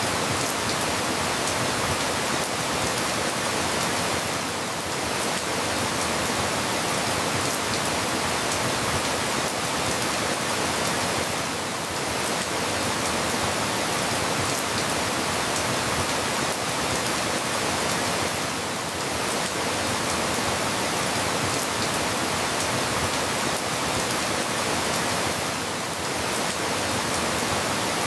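Steady rain falling, an even hiss with no distinct drops or thunder, dipping slightly about every seven seconds.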